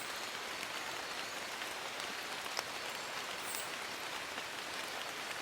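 Steady rain falling on forest leaves, an even hiss with scattered individual drops ticking, one a little more distinct about halfway through.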